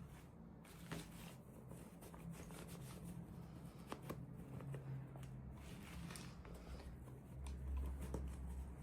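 Faint rustling and light clicks of toy packaging and small plastic pieces being handled, over a low steady hum that gets louder near the end.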